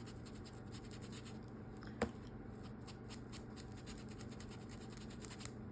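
Faint, rapid scratchy rubbing as ink is worked onto a cloth doll's cheeks, with one sharper tap about two seconds in.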